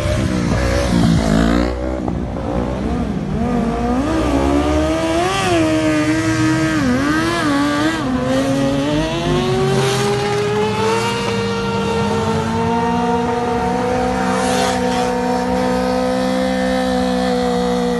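Car engine revving hard. The pitch wavers up and down for the first half, then climbs and is held at high revs.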